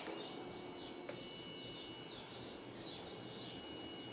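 A faint key click at the very start, then near quiet with a thin, steady, high-pitched whine and a small bird chirping about twice a second.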